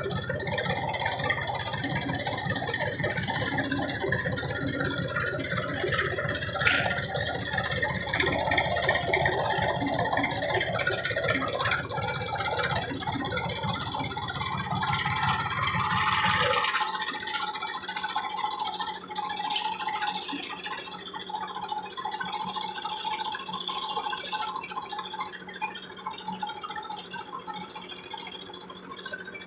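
Massey Ferguson tractor engine running with a buzzing, rattling throb. The deep throb stops suddenly a little past halfway, leaving a fainter steady hum.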